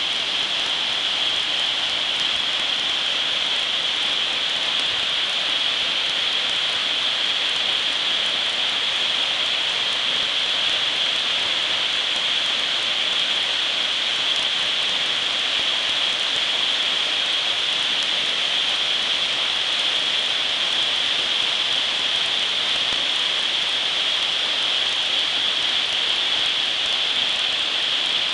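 Havigh waterfall: a steady, unbroken rush of falling and splashing water.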